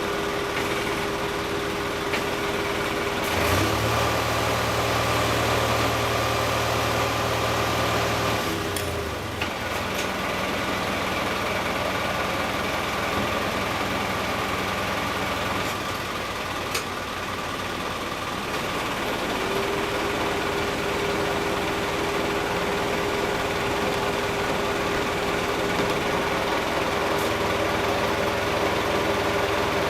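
An engine idling steadily, with a deeper low drone added from about three and a half to eight and a half seconds in, and a few light knocks.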